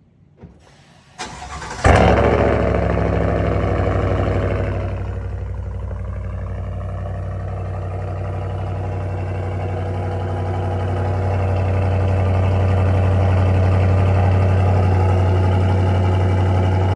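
Chevy Silverado 6.2-litre V8 with a Borla S-Type cat-back exhaust starting up. The starter cranks briefly, the engine fires about two seconds in with a loud flare of revs, then it settles within a few seconds into a steady, deep idle that climbs slightly later on.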